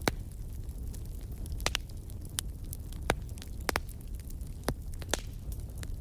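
Wood fire burning in a fireplace: a steady low rumble of flames with sharp, irregular pops and crackles, several a second at times.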